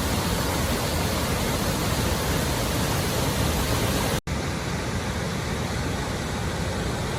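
Steady roar of a large river waterfall, with a very short dropout about four seconds in where the recording cuts to another take.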